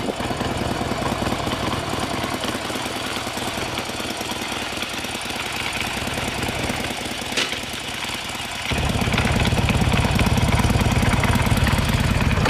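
Small motorcycle (pit bike) engine idling with a rapid, uneven beat. About nine seconds in it is revved up and runs clearly louder.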